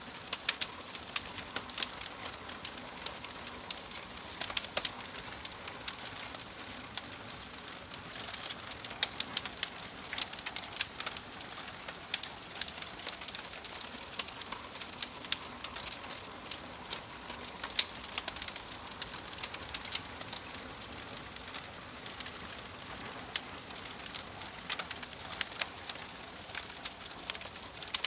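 Wood fire crackling in a fireplace: frequent sharp, irregular pops and snaps over a steady soft hiss.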